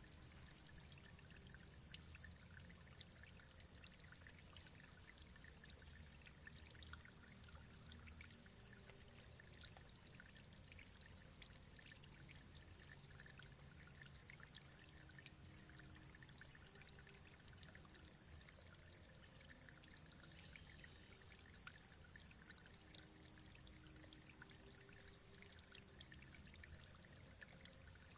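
Running water trickling steadily: a faint, even splashing flecked with small droplet ticks.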